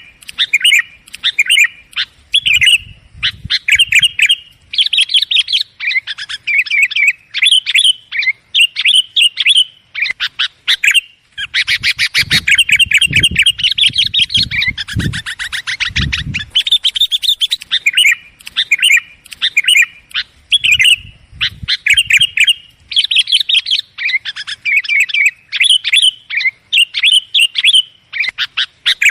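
Sooty-headed bulbuls (kutilang) calling noisily in quick, repeated chattering phrases, with a longer unbroken run of calls in the middle. A few low thuds sound under the calls around the middle.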